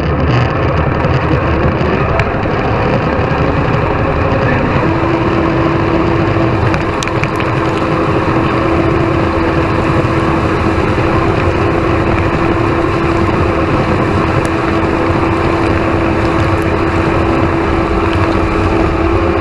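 Tractor engine running steadily under load, with a steady whine that comes in about five seconds in.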